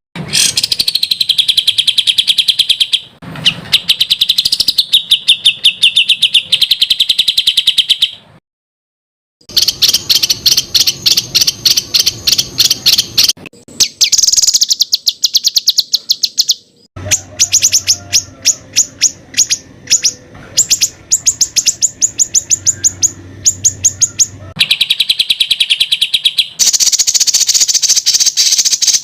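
Songbird song edited into a masteran training track: long rapid-fire strings of sharp repeated chirping notes ('tembakan'). The track switches abruptly from one phrase to another, with a brief silent break about eight seconds in.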